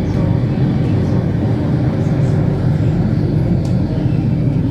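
Singapore MRT Circle Line train running between stations, a loud, steady low rumble of wheels and running gear heard from inside the carriage.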